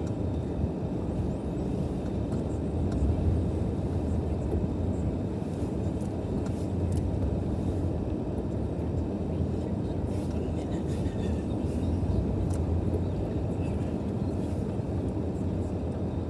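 Steady low rumble of a car driving, road and engine noise with no change in pitch.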